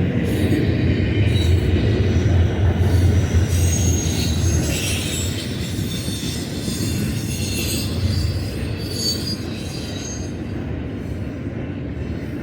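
Freight train rolling past on the mainline: steel wheels rumble steadily on the rails, with a few brief high-pitched wheel squeals. The rumble eases slightly near the end.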